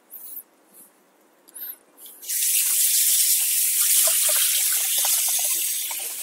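Tap water running hard, starting about two seconds in, as the bike's cassette sprockets are rinsed of dishwashing-liquid suds. A few brief small sounds come before it.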